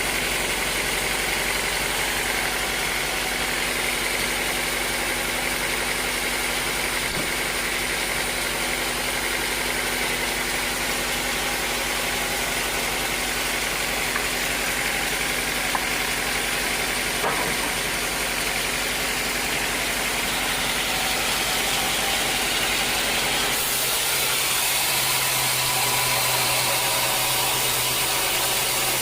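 Sawmill machinery running steadily: an engine-like drone under a broad hiss. About three quarters of the way through, the deepest hum drops out and a slightly higher hum takes its place.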